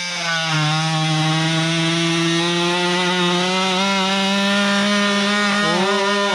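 Worx WX696 oscillating multi-tool running at high speed and sawing into firewood, a steady high buzz. Its pitch wavers and dips near the end as the blade loads up in the wood.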